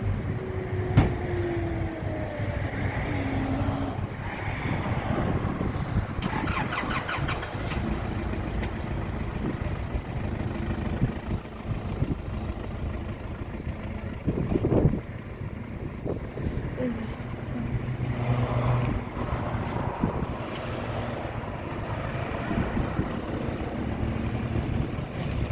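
Motor-vehicle noise: a steady low engine hum, with a sharp knock about a second in and a louder swell around the middle, and some voices.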